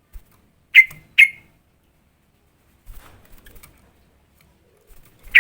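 Yellow-vented bulbul giving short, sharp call notes: two loud notes close together about a second in, and another near the end.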